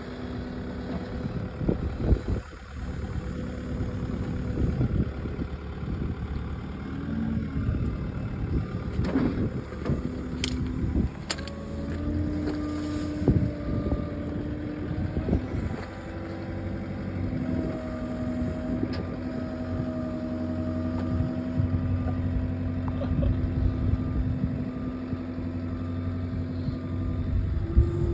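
A pickup truck driving: steady engine and road drone whose tone shifts in pitch every few seconds, with occasional light knocks.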